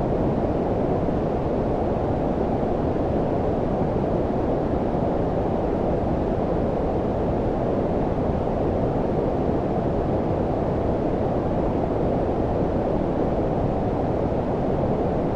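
Steady low-frequency noise, white noise filtered down so that it sounds deep and muffled like brown noise, with most of its weight below about 1 kHz and no changes.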